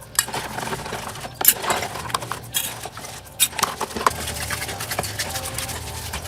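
Irregular clinks, knocks and scraping of small metal objects being handled, like tools and parts during hand work.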